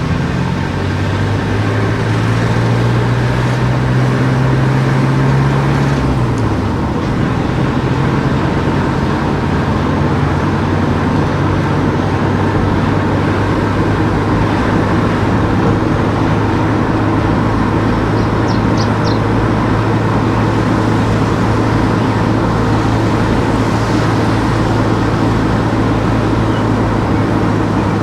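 Car engine and road noise while driving. The engine note climbs for the first several seconds, drops about six seconds in as the engine eases off, then runs steadily.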